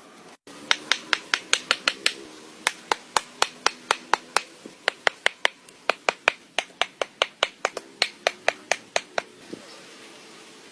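Runs of sharp, rapid knocks, about five or six a second, separated by short pauses, with a brief dropout about half a second in.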